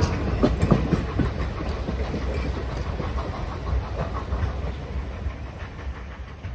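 Passenger train behind steam locomotive N&W 611 rolling along, steel wheels clacking over rail joints above a steady low rumble, fading out toward the end.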